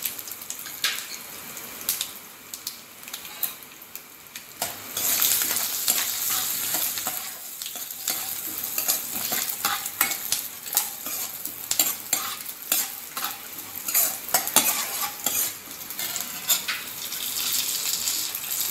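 Peanuts frying in hot tempering oil with mustard seeds, cumin and urad dal in a wok, sizzling, louder from about five seconds in. A steel ladle stirs them, scraping and clicking against the pan.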